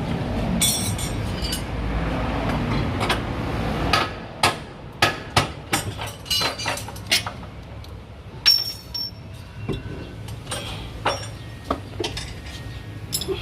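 A steady low vehicle rumble for about the first four seconds, then a run of irregular sharp metallic clinks and knocks, as of hand tools striking and setting down on metal.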